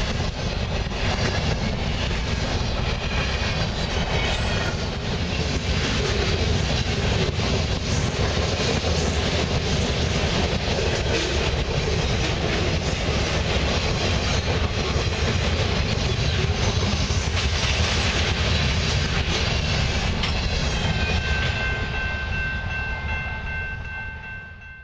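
Freight cars of a fast mixed freight train rolling past at speed: a steady rumble with the clatter of steel wheels on the rail, fading out at the end.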